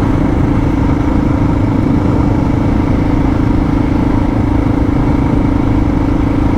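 Suzuki DR650 single-cylinder engine running steadily at cruising speed on its reserve fuel, with a constant drone and wind and road noise.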